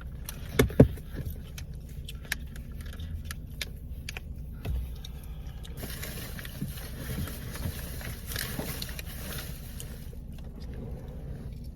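Belongings being handled and moved about inside a car: small clicks, knocks and rustling, with a pair of sharp knocks about a second in, over a low steady rumble.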